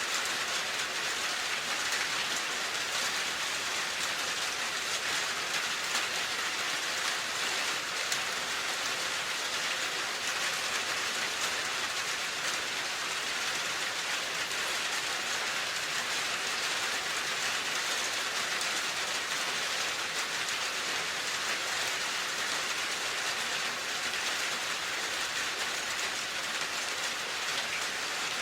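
Steady rain falling, an even hiss with many fine drop ticks on a hard surface.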